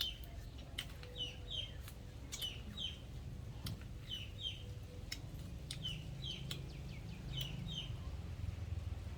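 A bird calling in pairs of short, high, falling chirps, repeated about every second and a half, over a low background rumble with scattered sharp clicks.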